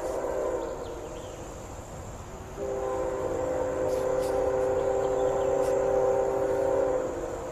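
CSX freight locomotive's air horn sounding a chord: one blast ending about half a second in, then a long steady blast from about two and a half seconds in until near the end.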